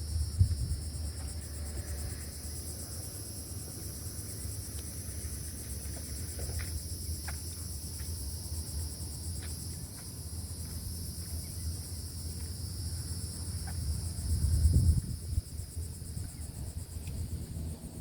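Steady, high-pitched insect chorus trilling without a break, over a low rumble of wind on the microphone that gusts loudest about fifteen seconds in.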